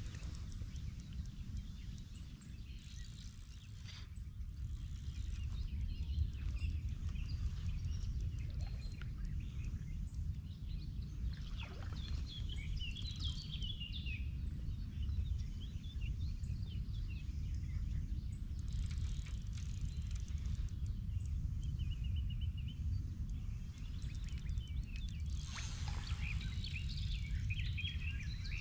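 A steady low rumble of outdoor background noise, with small birds chirping and twittering at times, most busily around the middle and near the end.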